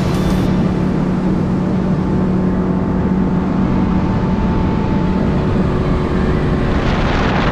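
Boat's outboard motor running at a steady speed as the boat travels, with a rush of wind noise on the microphone near the end.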